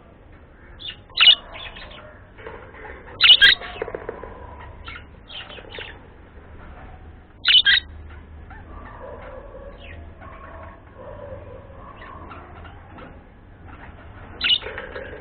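Pet birds chirping and chattering, with four loud short calls standing out: about a second in, at about three seconds, at about seven and a half seconds, and near the end.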